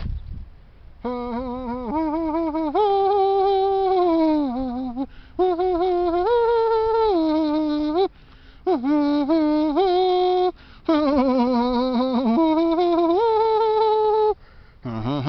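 A voice humming a wordless tune close to the microphone, in phrases of a few seconds with wavering held notes that step up and down in pitch and short breaks between them.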